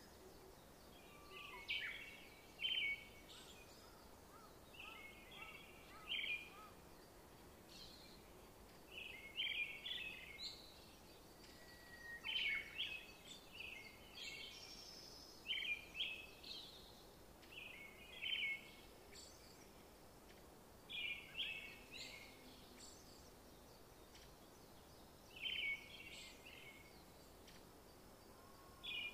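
A songbird singing short, rapid chirping phrases every two to three seconds over a faint steady hiss.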